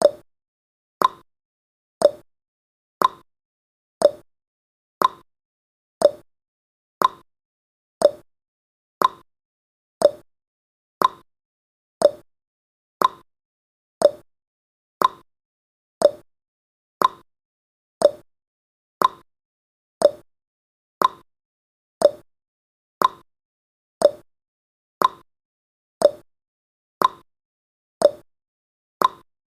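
Countdown timer's tick sound effect: a short, sharp tick once every second, evenly spaced and dying away quickly after each one.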